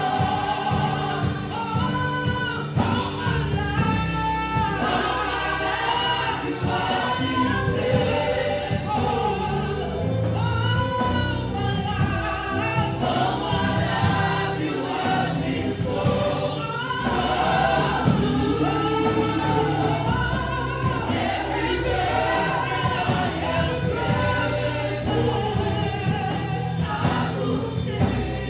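Gospel worship song: a group of voices singing together over instrumental accompaniment with a steady bass.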